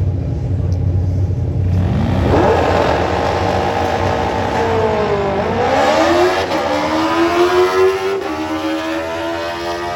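Drag bike engine revving hard after a low idling rumble. The pitch climbs, drops back and climbs again in steps, like a run through the gears, then fades near the end.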